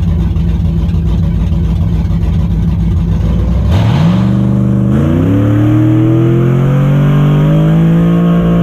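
A drag-racing engine running loud at a steady high rev, then pulling hard from about four seconds in, its pitch climbing in two quick steps and then rising more slowly as the vehicle accelerates.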